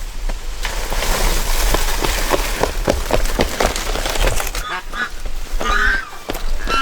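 Poultry calling, with a run of short clicks and rustles in the first few seconds and pitched calls near the end.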